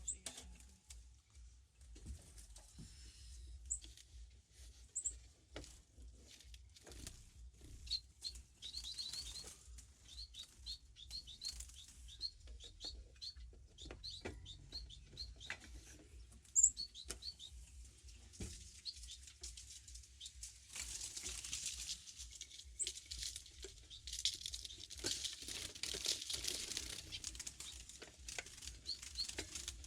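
Small aviary finches fluttering and flapping their wings, with scattered short high chirps. About eight seconds in comes a quick run of a dozen or so chirps, and in the last third the wing flutter grows thicker and busier.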